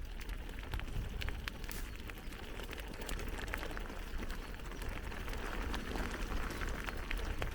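Bicycle rolling along a dirt and gravel forest track: a steady tyre and wind rumble with many scattered clicks and rattles from the bike going over bumps.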